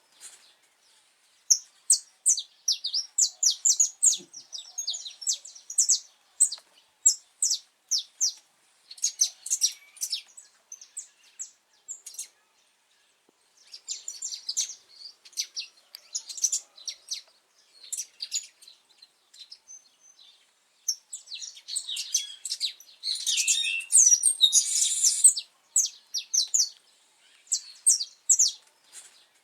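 Saffron finch singing: phrases of rapid, high, sharp chirping notes, repeated with short pauses between them, with a denser and louder run a few seconds before the end.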